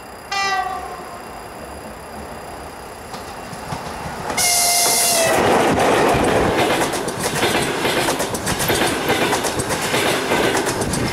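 Approaching EP1M electric locomotive sounding its horn, first a short blast and then a louder blast about four seconds in as it reaches the track edge. The passenger train then rushes past close by, with a loud rumble and a rapid, regular clatter of coach wheels over the rails.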